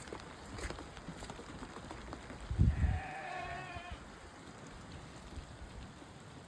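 A single bleat, about a second long, from a sheep or goat, starting about three seconds in right after a low thump. Small scattered ticks and crackles run under it.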